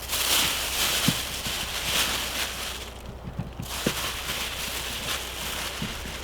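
Rustling and crackling, with scattered small knocks, as bags of freshly dug potatoes are handled for weighing. The rustling is loudest for the first few seconds, then drops off briefly before carrying on more softly.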